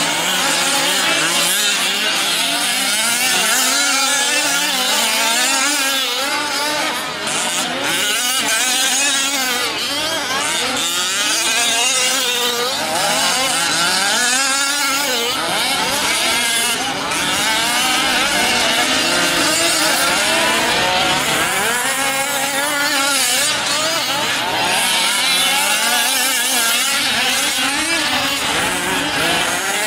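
Several fifth-scale RC trucks' small two-stroke gasoline engines racing together, each repeatedly revving up and backing off, their buzzing pitches rising and falling over one another.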